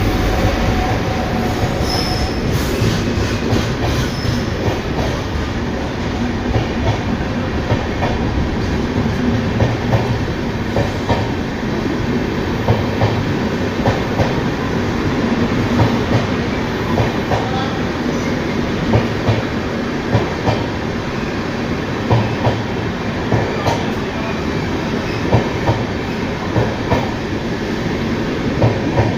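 Passenger train running on the track: a steady loud rumble with wheels clacking over rail joints at regular intervals.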